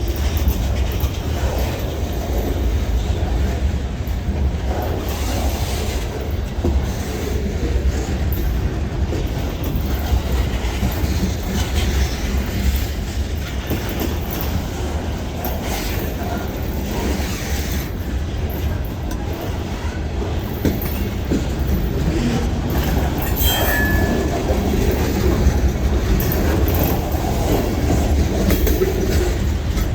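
Freight train rolling by, a steady low rumble of steel wheels on rail throughout, with a brief high squeal about three-quarters of the way through.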